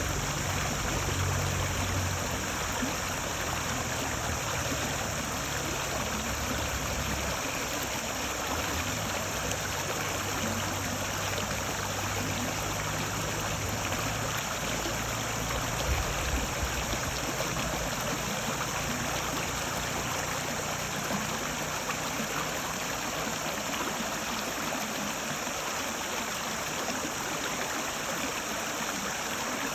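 Stream water flowing and babbling steadily, an even, continuous rush of water noise.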